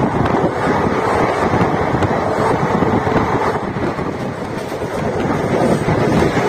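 ICF express passenger coach running at speed: a steady rush of wheel and rail noise, with wind buffeting the microphone.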